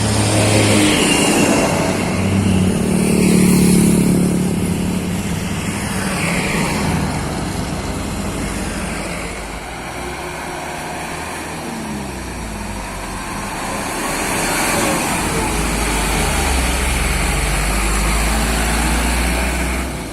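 Road traffic: motor vehicles passing one after another, engine and tyre noise swelling and fading.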